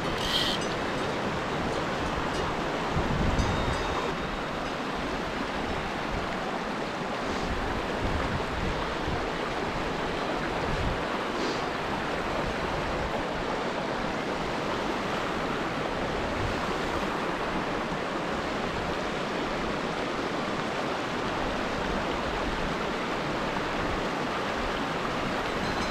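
Mountain torrent rushing steadily over rocks, a continuous even hiss of fast water, with a brief low bump about three seconds in.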